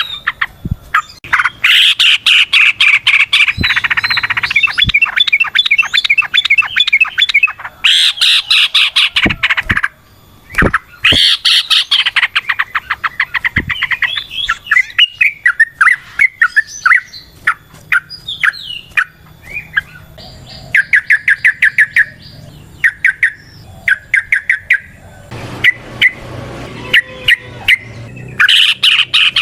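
Yellow-vented bulbul (trucukan) singing loudly in long phrases of rapid repeated notes, broken by short pauses.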